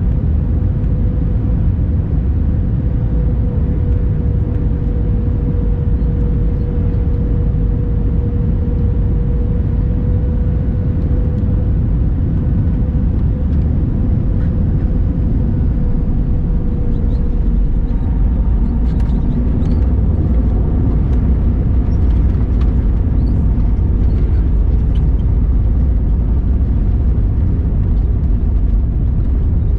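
Cabin noise inside an Airbus A321-200 airliner: a steady low rumble of engines and airflow with a steady hum. About two-thirds through, faint rattles and clicks come in over it.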